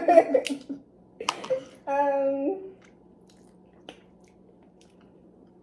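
Chewing and small wet clicks of someone eating shellfish by hand, with a woman's voice trailing off at the start and a short hummed sound about two seconds in. The second half is quiet apart from a few faint clicks over a steady low hum.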